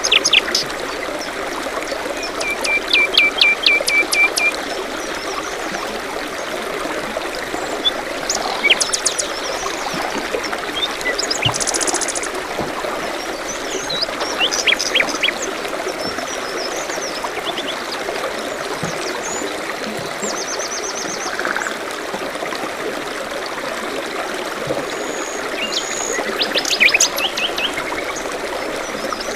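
Water trickling and splashing steadily, with several small birds chirping and singing over it: a quick run of repeated notes a few seconds in, scattered chirps through the middle, and a burst of rapid chirps near the end.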